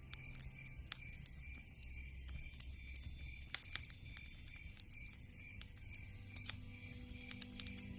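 Campfire crackling, with scattered sharp pops and snaps at irregular intervals.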